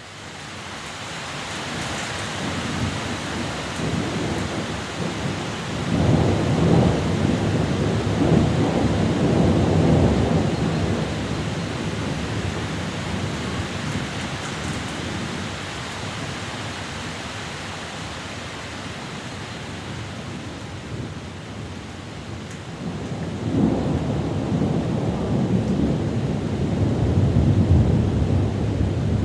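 Thunder rumbling in two long rolls during a thunderstorm, the first starting about six seconds in and dying away after about five seconds, the second building near the end, over a steady hiss.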